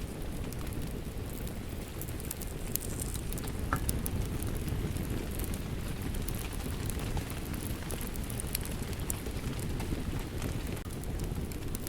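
Steady rain mixed with a crackling wood fire: an even, low, continuous rush with frequent small sharp pops and crackles scattered throughout.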